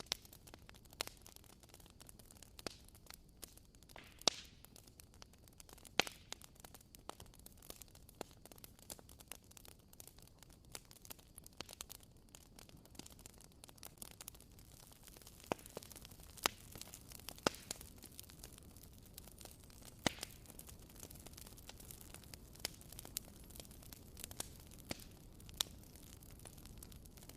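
Bonfire crackling softly: a faint steady hiss with irregular sharp pops, a few of them louder, scattered through.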